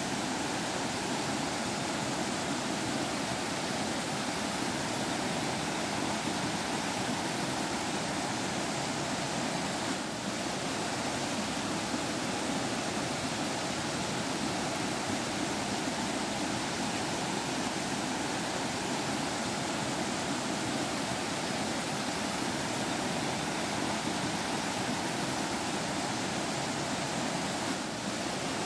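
A forest stream flowing and babbling in a steady rush of water, dipping briefly twice.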